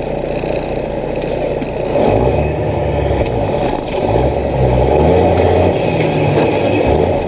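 Heavy diesel truck engine with its Jake brake (compression-release engine brake) in use: a loud, low, rattling drone. It grows louder about two seconds in, and its pitch steps up and down several times.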